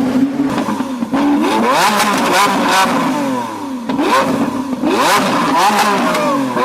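High-performance car engine revving hard, its pitch climbing and dropping back several times as it accelerates through the revs, with a few short sharp cracks between revs.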